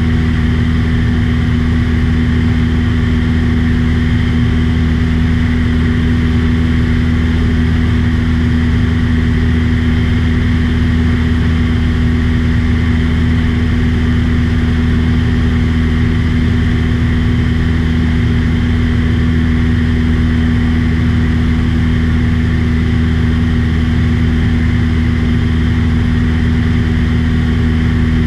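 Small airplane's engine and propeller running at a steady drone, with a constant low pitch that does not change.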